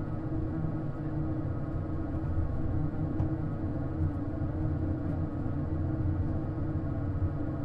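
Cabin noise of an Airbus A220 with Pratt & Whitney PW1500G engines running: a steady low rumble with a constant hum over it.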